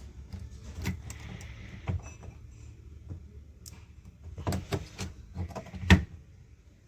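Scattered clicks and knocks of parts being handled during a repair, coming in quick clusters, with one sharp loud knock about six seconds in.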